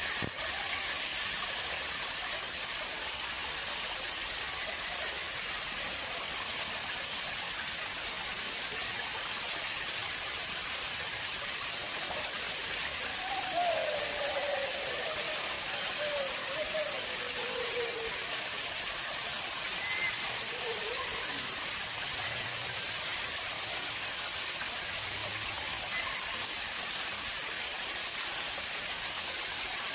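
Water flowing steadily into an artificial pond, a continuous rushing hiss of falling water.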